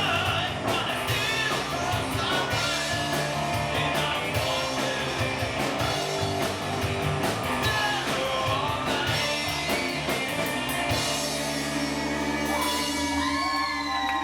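Live rock band playing, with drum kit, electric guitar and a singing voice. About eleven seconds in the drums drop out and a held chord rings on, with notes bending in pitch near the end.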